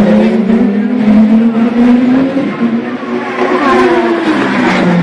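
Racing car engines running loud at high revs, their pitch wavering and gliding up as the cars accelerate.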